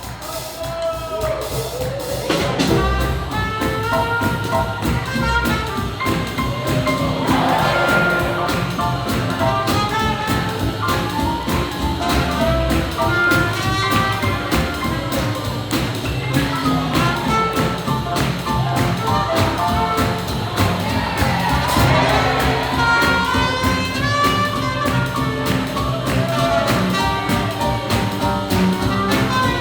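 Live swing jazz band with brass playing over a steady beat, thinner for the first couple of seconds and then coming in full.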